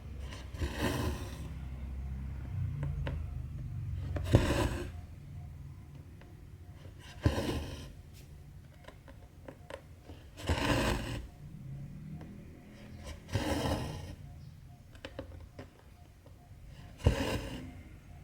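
Cotton embroidery thread pulled through cross-stitch fabric, stitch after stitch: about six short rasping swishes roughly every three seconds, several opening with a sharp pop as the needle pierces the cloth.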